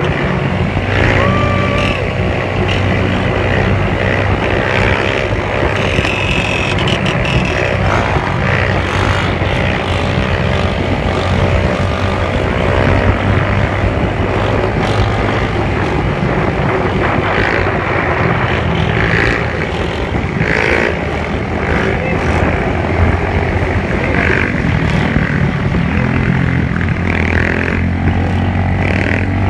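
Motorcycle engines running, a steady low drone with the pitch rising and falling at times as the throttle is worked.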